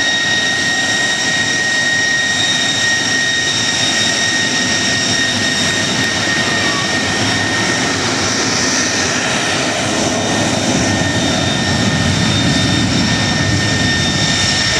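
A-10 Thunderbolt II jet in flight, its turbofan engines giving a steady high whine over a continuous rushing engine noise.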